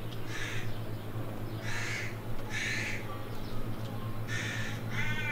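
A bird's short, harsh calls, about five at uneven intervals, the last one more clearly pitched, over a steady low hum.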